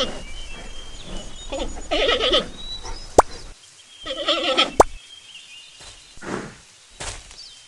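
An animal's calls: three wavering cries about two seconds apart, with sharp single clicks between them.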